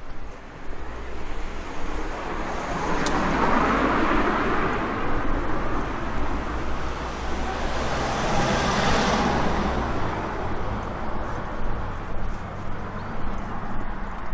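Road traffic: a motor vehicle passing close by, its tyre and engine noise swelling from about three seconds in and fading after about ten seconds.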